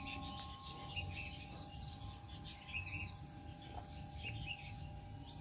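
Faint bird chirps, short and scattered, over a low background hiss and a faint steady tone.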